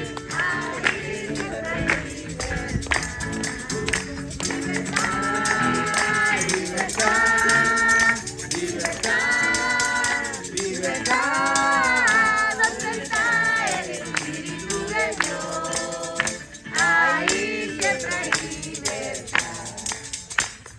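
Group singing a worship chorus, held sung notes over a steady shaking of hand percussion.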